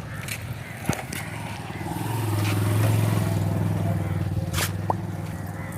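A motor vehicle's engine hum builds up about two seconds in, then slowly fades, as if passing by. A couple of sharp clicks or knocks come in between.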